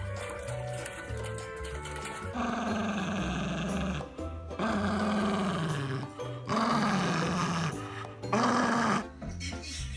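A dog giving four long, rough vocalizations, each falling in pitch, one after another starting a couple of seconds in. Background music plays throughout.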